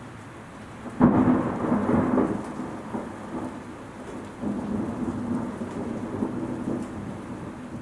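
Strong wind gusts buffeting the microphone as a noisy rumble. A sudden loud gust comes about a second in and fades, and another swells up after about four and a half seconds.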